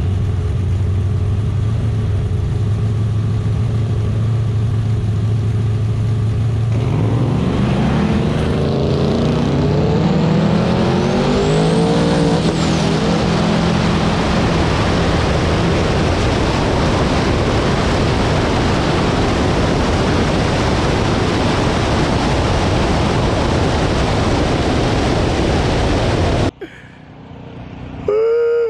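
Drag race between a nitrous 1955 Chevy Bel Air and a twin-turbo Camaro. The engines idle steadily at the line, then rise sharply in pitch several times as the cars launch and accelerate hard down the track. A loud, even roar follows, then cuts off suddenly near the end.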